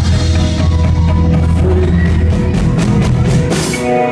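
Live rock band playing an instrumental passage of an original song, drum kit and bass to the fore, with no singing. A low bass note is held through the first half, and a loud cymbal crash comes about three and a half seconds in.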